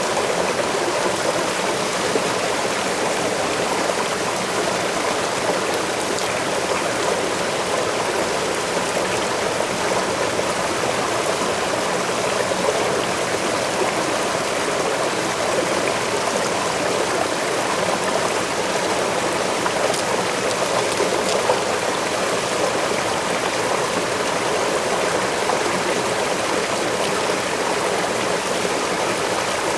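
Waterfall and the stream below it rushing steadily, a continuous even splashing of falling water.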